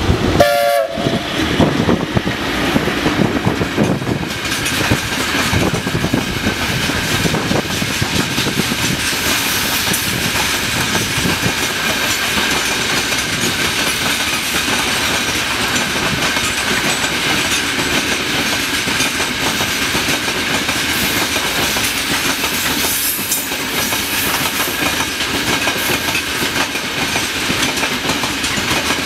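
Long freight train of open wagons rolling past, its wheels rumbling and clattering steadily on the rails. A brief train horn sounds about half a second in.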